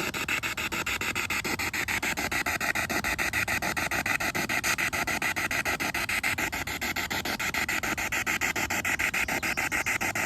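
Spirit box sweeping through radio frequencies: a steady hiss of radio static chopped about seven times a second.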